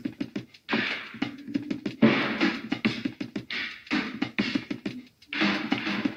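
Electronic music from a Eurorack modular synth patch, with the Percussa SSP's sampler playing chopped drum-loop samples. The hits stutter and glitch over a steady low tone, and the sound drops out briefly twice.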